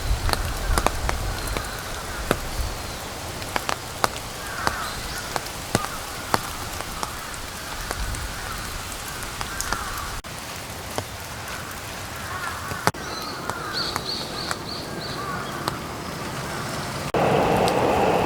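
Steady rain falling, with many close raindrops tapping sharply against it. The rain gets suddenly louder and fuller near the end.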